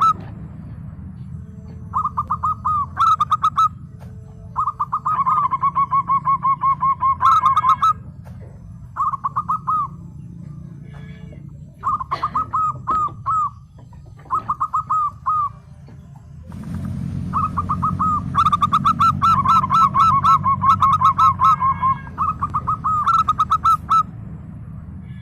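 Zebra dove (perkutut) singing: runs of quick, staccato cooing notes in repeated phrases, some under a second and one running for several seconds near the end. A steady low hum sits underneath.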